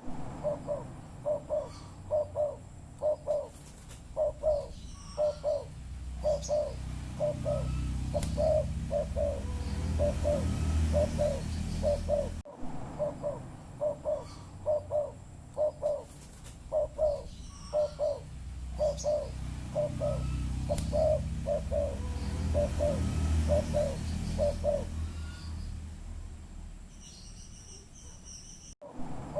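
Spotted dove (tekukur) cooing over and over, a long series of low, evenly spaced coos, over a low background rumble. The calling breaks off abruptly twice, about halfway and near the end, and starts again.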